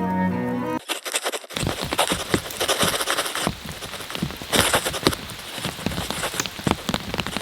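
Heavy rain falling, with big drops striking a surface in dense, irregular clicks and taps. Cello music cuts off less than a second in, before the rain begins.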